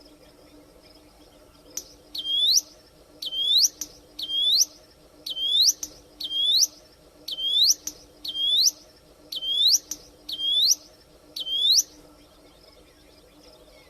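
A prinia (ciblek) singing: a series of about ten loud notes, each dipping and then sweeping sharply upward, repeated about once a second. They begin about two seconds in and stop about two seconds before the end.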